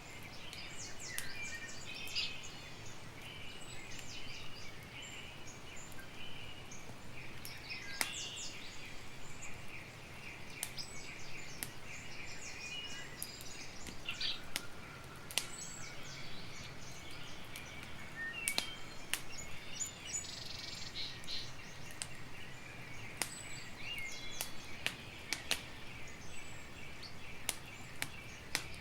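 Campfire crackling, with sharp irregular pops, while birds chirp and sing steadily in the background.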